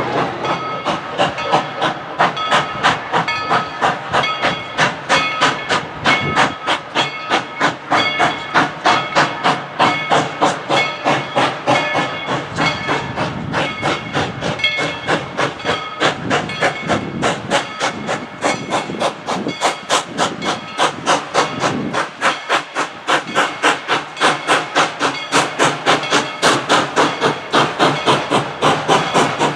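Steam locomotive 190 working a train, its exhaust chuffing in an even rhythm of about three beats a second.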